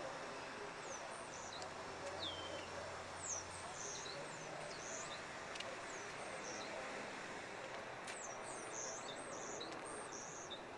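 Small birds chirping in short, high, quickly sliding notes, busiest near the end, over a steady background hiss of outdoor ambient noise.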